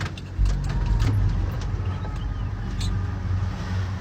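Boat motor running with a steady low rumble that gets louder about half a second in, with light clicks and splashes over it.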